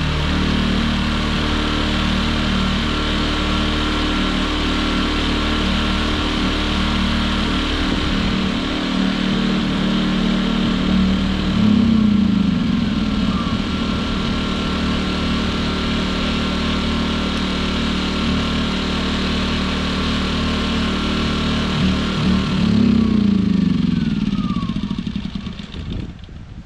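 Champion inverter generator engines running on the last fuel in the carburetor after the fuel valve is shut off. The engine speed sags and recovers twice, about halfway and again near the end, then the engines die out as they run out of gas.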